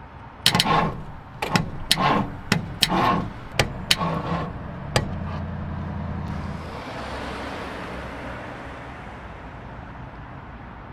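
A run of sharp knocks and clicks, some of them ringing briefly, over the first five seconds. Then a steady low mechanical hum, with a hiss that swells and fades away.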